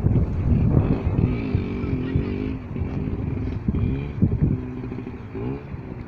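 Motorcycle engine running, its revs rising and falling several times.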